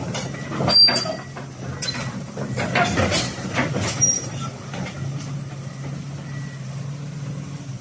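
Komatsu PC450 excavator with its diesel engine running steadily, overlaid by metallic clanks and short high-pitched squeals of steel on steel, busiest in the first half and settling to the engine drone in the second.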